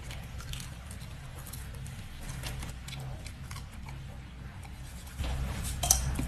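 Close-up chewing of a crispy deep-fried skewer: irregular soft crunches and wet mouth sounds over a steady low hum, louder near the end with one sharp click.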